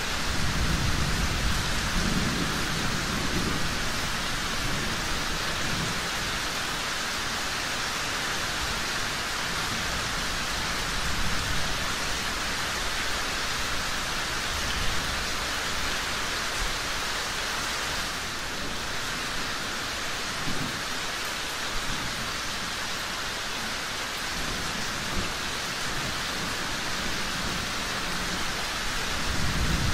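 Steady heavy rain falling, with low rumbles of thunder swelling in the first few seconds, again about two-thirds of the way through and near the end.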